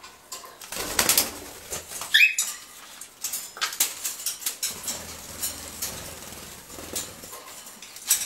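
Small birds (cockatiels and sparrows) feeding together: wings fluttering and many small clicks and taps as they move and peck at the food, with one short bird call about two seconds in.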